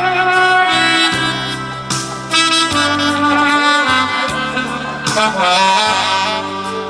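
Music: a saxophone-like horn melody played over an amplified backing track with a sustained bass line.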